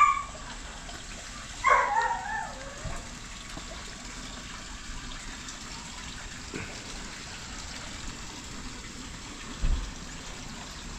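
Steady trickling, splashing water. A short wavering pitched call sounds about two seconds in, and a low thump comes near the end.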